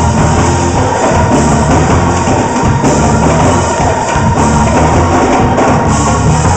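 Loud live gospel praise-break music from a church band, with drums and bass under a steady held tone.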